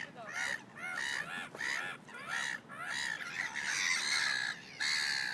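Birds calling over and over, about two or three calls a second, crowding into a dense overlapping chorus a few seconds in.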